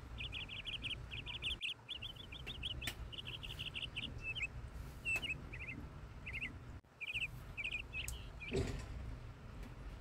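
A songbird chirping in quick runs of rapidly repeated high notes, with short gaps between runs, over a steady low rumble. A short soft thump comes near the end.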